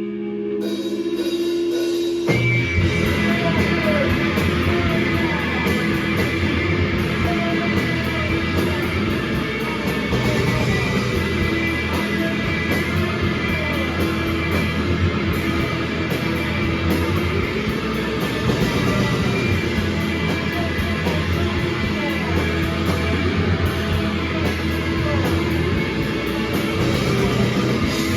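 Live rock band with distorted electric guitars and drums playing loud; a guitar holds notes alone at first, and the full band crashes in about two seconds in.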